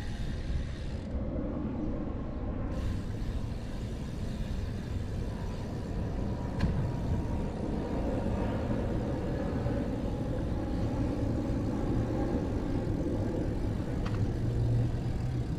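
Steady road traffic noise, a continuous rumble of cars going by.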